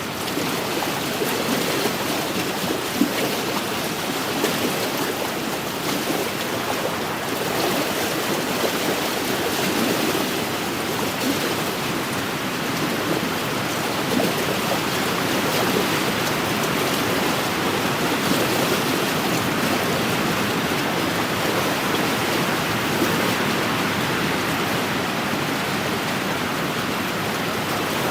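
Wind-driven lake waves washing steadily against the shore, with wind blowing over it.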